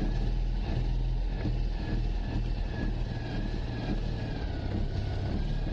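Car engine running just after a reluctant cold start, heard from inside the cabin, with the throttle being pumped. It is a steady low running sound with a faint thin whine over it.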